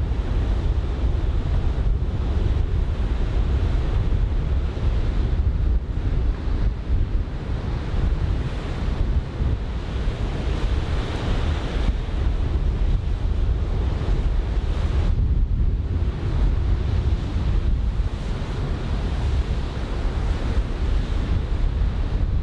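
Wind buffeting the microphone with a heavy low rumble, over the steady wash of head-high typhoon swell breaking on the beach; the surf hiss swells louder about halfway through.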